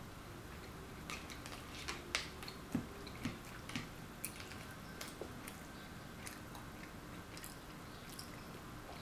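A person quietly chewing food, with scattered small clicks and taps, most of them in the first four seconds, as food is eaten with a fork from a paper plate.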